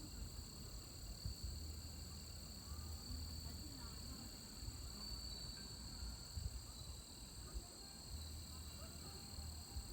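Steady, high-pitched chorus of insects outdoors, with a low rumble underneath and a few faint, short chirps.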